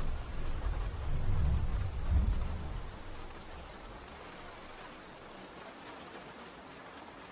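Steady rain with a low roll of thunder in the first three seconds, which then fades to rain alone.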